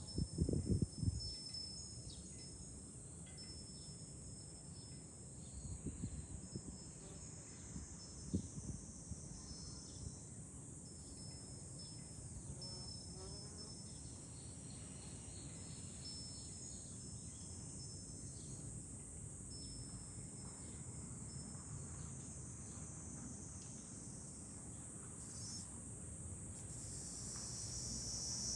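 Summer cicadas in a steady, high-pitched chorus. Wind buffets the microphone with low rumbles in the first second and again around six and eight seconds in. The chorus grows louder near the end.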